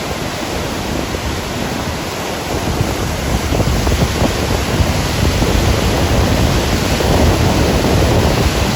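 River rapids rushing: loud, steady whitewater noise.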